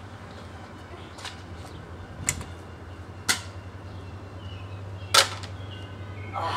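Nerf blasters firing: four sharp pops spread over several seconds, the loudest about five seconds in, over a steady low hum.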